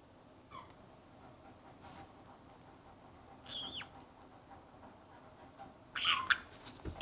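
Parrot squawking during a toenail trim: a faint short call a little after the start, a falling call midway, and a loud harsh squawk about six seconds in. It is a startled reaction to the clipping, which did not hurt the bird.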